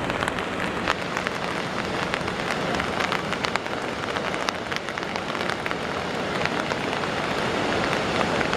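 Steady hiss of water, dotted with many light ticks.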